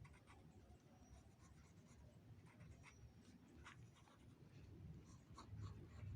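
Near silence: faint low room hum with scattered soft clicks and a few brief, thin high chirps.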